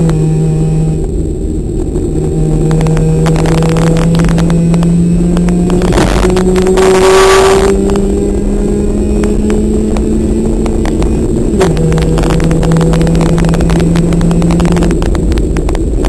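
Competition car's engine pulling hard, heard from inside the cabin, its pitch climbing slowly. The engine eases off briefly about a second in and drops in pitch in one step near twelve seconds in. A brief rushing noise rises over it around six to eight seconds in.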